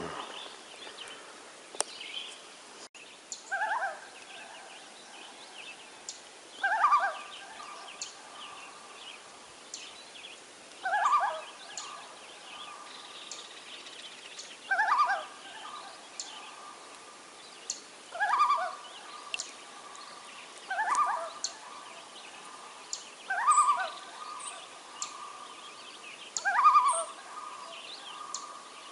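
A bird calling over and over, about eight short quavering calls, one every three to four seconds, each trailing off into a steadier note.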